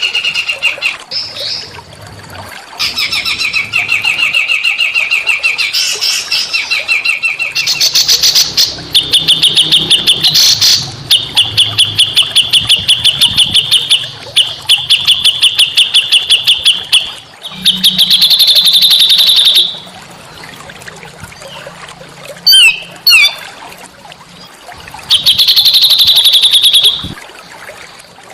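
Small songbirds singing a run of fast, rattling trills, each lasting two or three seconds, with short pauses and a few sharp quick chirps between them.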